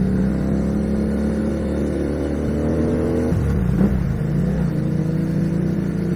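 FKM Victorino 250i's 250 cc V-twin engine running steadily under way, heard from the rider's seat. About three seconds in the sound changes to the same bike heard from the roadside as it rides past, with a short knock just after the change.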